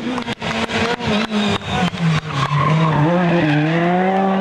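Rally kit car engine at full stage pace. It stutters through a run of sharp cracks as the throttle is snapped on and off, then pulls a steady, slowly climbing note as it accelerates.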